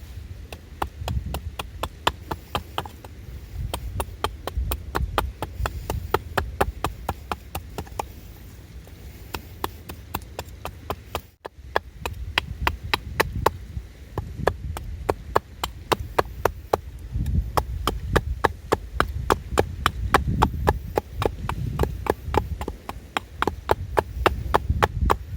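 Rapid, rhythmic sharp knocks, about four or five a second, from hand work with a tool, over a low rumble; they break off briefly about halfway through, then carry on.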